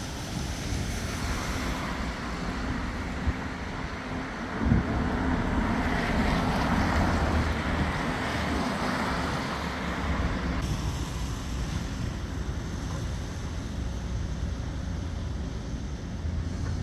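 Steady outdoor rumble of engines with wind buffeting the microphone, and a single knock about five seconds in.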